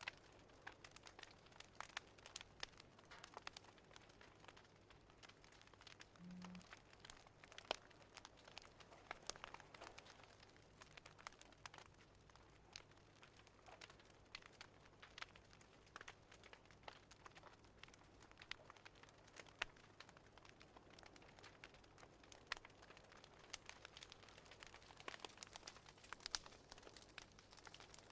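Faint crackling of a wood fire in a fireplace: irregular small pops and snaps, scattered throughout.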